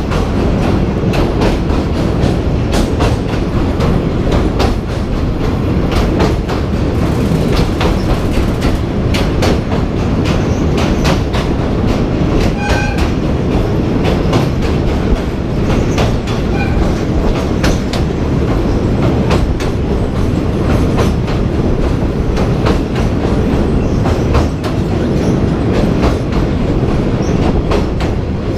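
Passenger train running along the track: a steady loud rumble with frequent sharp clacks of the wheels over the rails.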